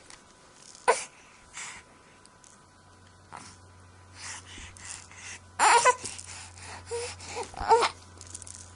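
A baby fussing in short whimpers and breathy cries with pauses between them, the loudest cry about six seconds in and another near the end.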